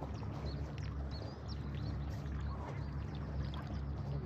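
Many short bird calls over a steady low rumble of wind on the microphone.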